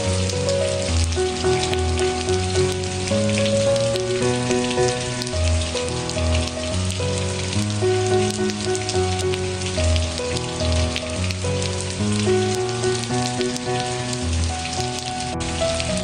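Steady rain pattering, layered with a slow, soft instrumental melody of held notes.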